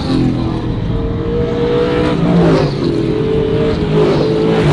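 Trans Am race car's V8 engine running hard at high revs. Its pitch breaks and settles again a few times, about every two seconds.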